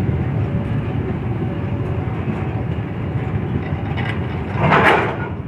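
Train rumbling steadily, with a brief louder hiss near the end.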